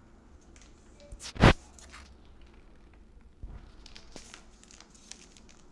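Cornstarch being tipped from its box into a bowl, with handling crackles and ticks and one loud thump about a second and a half in, then a softer low knock.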